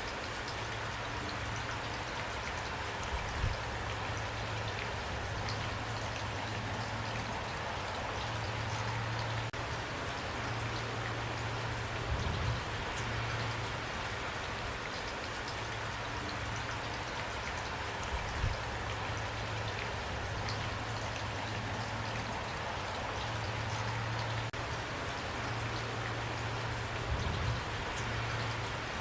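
Steady rain falling, with drops pattering on a surface. A few brief low thuds stand out, about every six to nine seconds.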